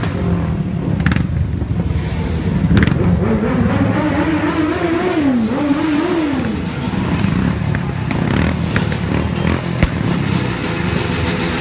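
Superbike engines running in a low rumble, with one engine revved up and down several times around the middle. There is a single sharp click near the end.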